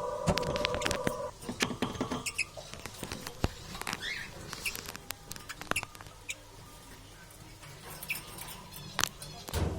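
Small bird moving about, with scattered light taps and scratches and a few short high chirps. A held musical tone fades out about a second in.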